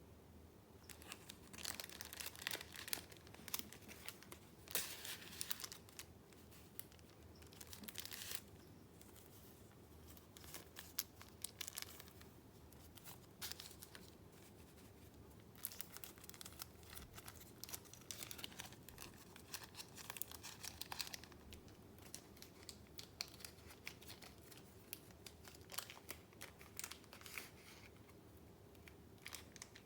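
Paper being handled close up: crinkling and rustling in irregular bursts, some quick and some lasting a second or more.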